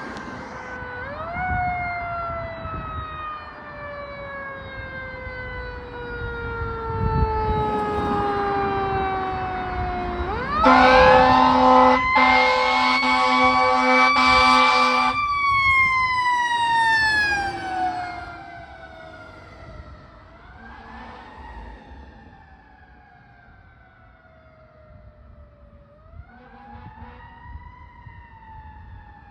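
Fire engine's Federal Q mechanical siren coasting down in a long falling wail, then wound back up while the air horn blasts for about four and a half seconds, with one short break. After that the siren winds down again, is given two brief rewinds, and grows quieter as the engine moves off.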